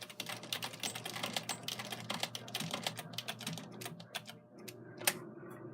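Rapid light clicks, like typing, packed closely for about four seconds and then thinning out, with one sharper click about five seconds in.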